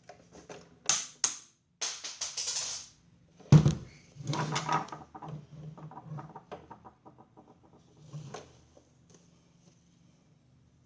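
Clicks and scrapes of parts being handled, with one heavy knock about three and a half seconds in and then a quick, even run of ticks lasting a couple of seconds, over a faint steady hum.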